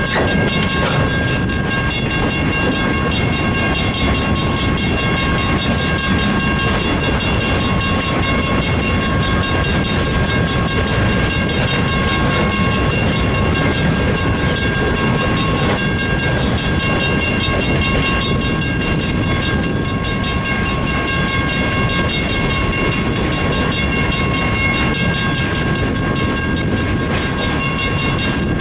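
Freight train boxcars rolling past a grade crossing: the steady noise of steel wheels on the rails, with the crossing signal's bell ringing steadily over it.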